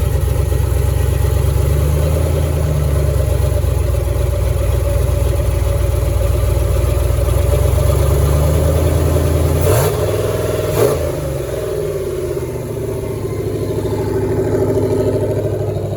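Car engine running at a high idle, held up because the throttle idle screw is missing. About ten seconds in there are two sharp knocks and the engine note drops, then it rises again near the end.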